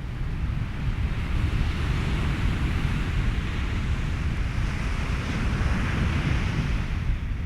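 Ocean surf mixed with wind and steady white noise. A wave washes in, swelling from about a second in to a peak near six seconds, then falling away near the end, over a constant low rumble.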